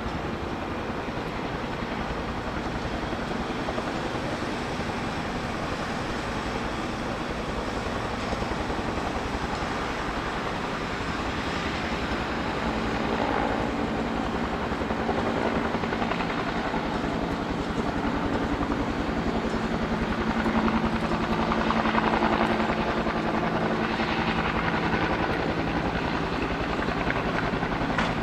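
Saab 340 turboprop engine running steadily on the ground as a continuous roar with a low droning hum. The hum grows somewhat stronger past the middle.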